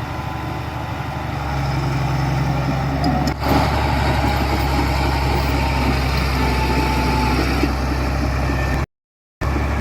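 Heavy diesel construction machinery running steadily with a low engine hum that grows louder about a second and a half in. The sound cuts out completely for about half a second near the end.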